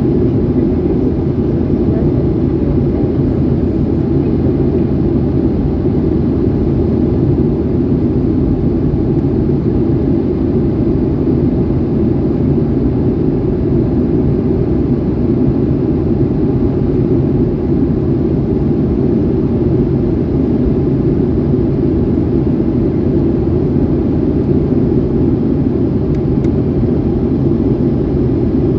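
Steady airliner engine and cabin noise heard from inside the passenger cabin: a constant low hum from the jet engines and ventilation.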